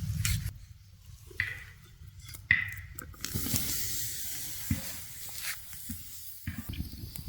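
Food sizzling in a pan over a campfire, with short ringing clinks of a utensil on the pan; the clink about two and a half seconds in is the loudest sound.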